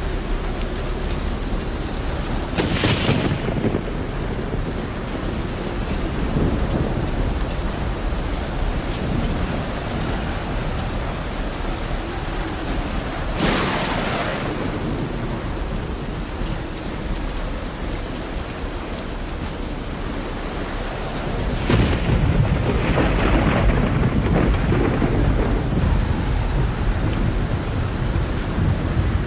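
Steady rain with thunder. Sharp claps come about three seconds in and again near the middle, and a long, loud rolling rumble of thunder starts about two-thirds of the way through.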